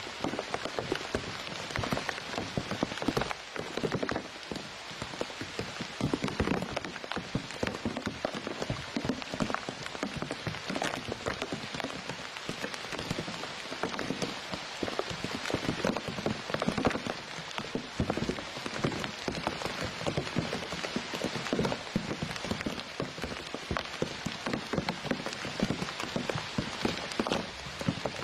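Steady patter of rain, a dense, even crackle of countless small drops.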